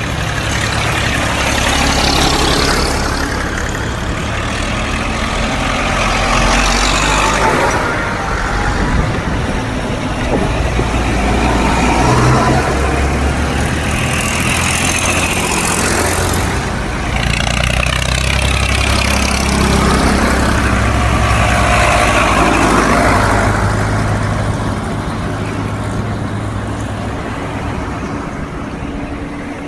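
Tractors driving past one after another. Their engines give a steady low rumble, and the noise swells and fades every few seconds as each one goes by.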